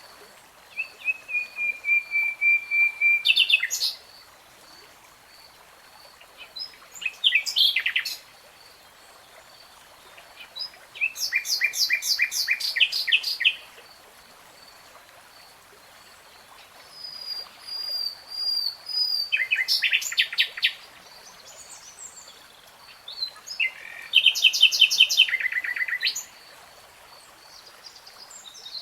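A songbird singing in about five separate phrases of rapid trills and a held whistle, with pauses between them. A faint steady pulsing high note runs underneath.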